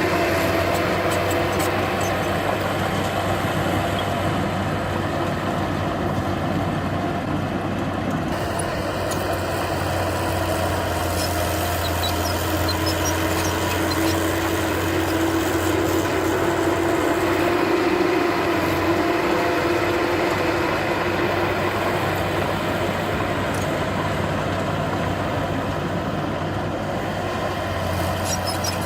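Heavy diesel earthmoving machine's engine running steadily, with a droning hum that swells a little around the middle. Faint scattered ticks sound over it.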